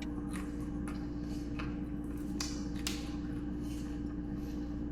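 Close-up chewing and mouth sounds of someone eating, with a few scattered short clicky crunches over a steady hum.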